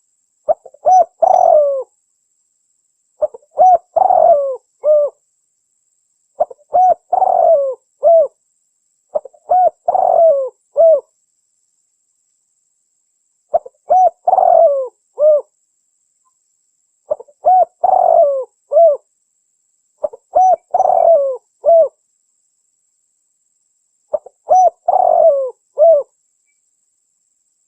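Spotted dove (tekukur) cooing: eight phrases, each a quick run of several coo notes, repeated every three to four seconds with silence between, as used for a lure call.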